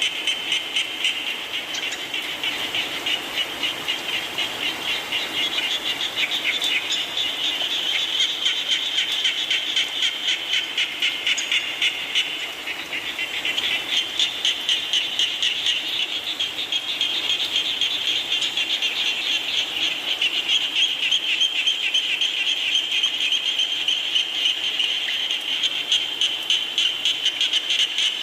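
A chorus of frogs calling in fast, evenly repeated pulses, over a steady hiss of falling rain.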